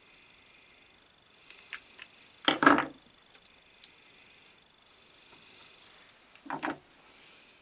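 Small tools and parts being handled on a workbench while a bench grinder's switch is being repaired: light clicks, faint scraping, and two louder clattering knocks, one about two and a half seconds in and one near the end.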